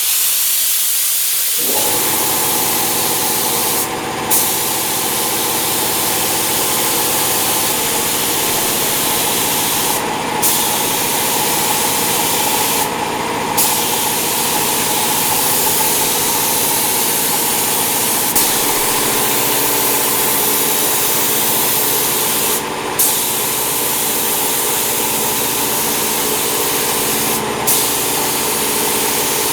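Spray gun hissing steadily as primer is sprayed onto the car, cutting out briefly five times as the trigger is let go. About two seconds in, a motor starts and hums steadily underneath.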